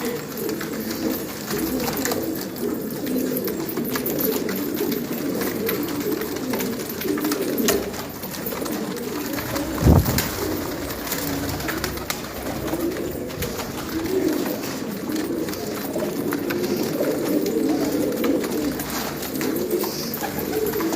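A flock of domestic pigeons cooing continuously, many calls overlapping. There is a single low thump about halfway through.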